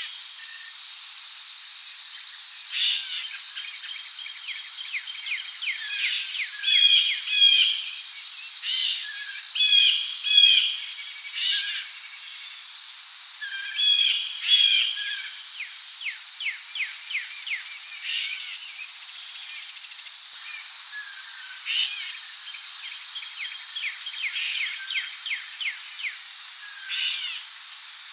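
Rainforest ambience: a steady high-pitched drone of crickets and other insects, with birds calling repeatedly over it in short chirps and quick trills.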